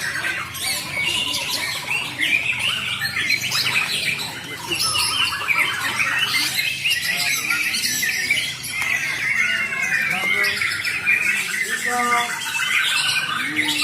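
Several caged songbirds, a Bornean white-rumped shama among them, singing and chattering at once in a dense, unbroken mix of whistled phrases and harsh calls.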